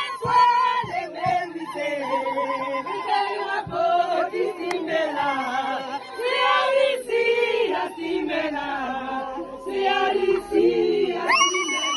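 A group of men and women singing together, choir-style, with several voices at once.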